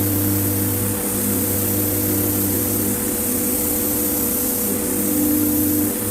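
A motor running steadily: an even machine hum with a high hiss over it, dipping briefly about a second in and near the end.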